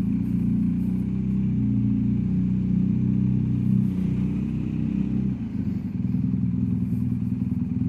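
BMW R1250 GS Adventure's boxer-twin engine running as the motorcycle rides at low speed, its note shifting lower about five seconds in.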